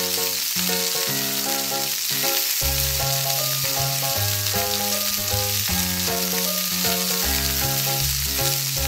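Frying sizzle sound effect laid over a toy egg in a plastic pan: a steady hiss of an egg frying in oil that starts and stops abruptly, with light background music.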